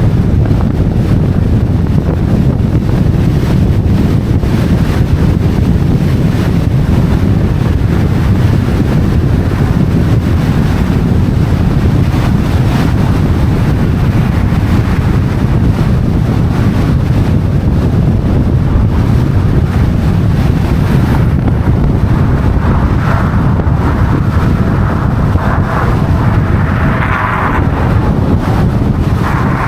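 Wind buffeting the microphone: a loud, steady low rumble. A few short higher-pitched sounds break through it in the last several seconds.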